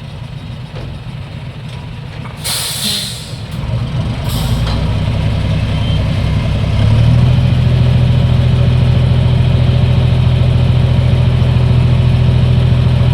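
Diesel dump truck with two short hisses of air from its air brakes, then its engine growing louder about four seconds in and running loud and steady.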